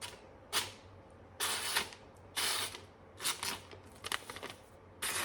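Freshly sharpened knife slicing through paper in a sharpness test: a run of about six quick cutting strokes, each a short swish, spaced under a second apart.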